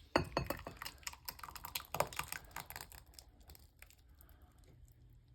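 Utensil clattering in a pot of thick soup: a quick, irregular run of clicks and scrapes for about three and a half seconds, then fading to a few faint ones.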